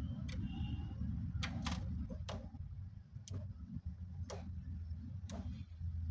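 Hand screwdriver driving a screw into a wooden cabinet: short sharp clicks about once a second as the screwdriver is turned and re-gripped, over a steady low hum.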